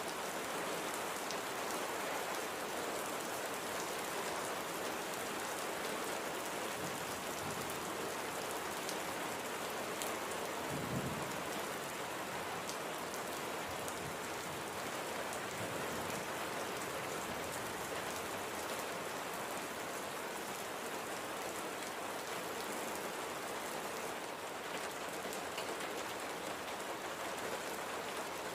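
Steady gentle rain: an even hiss of drops falling on surfaces. About eleven seconds in there is one brief, low thump.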